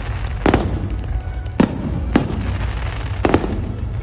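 Fireworks display going off: about five sharp bangs at uneven intervals, two of them close together near the end, over a constant low rumble.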